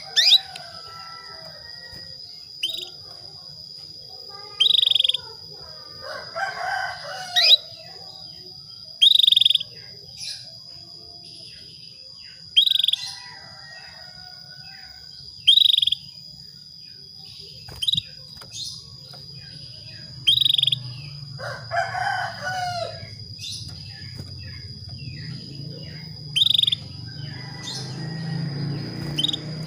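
Female canary giving short, sharp chirping calls, repeated every two to three seconds over a steady high tone: the calls of a hen in breeding condition calling for a male. A rooster crows twice in the background.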